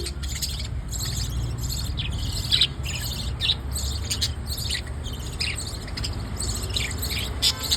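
Bird chicks chirping: short, high, falling begging calls repeated at irregular intervals as they are fed, over a low steady rumble.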